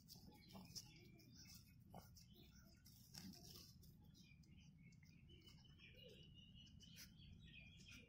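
Near silence with faint bird chirps, clearest in the second half, and a few soft clicks.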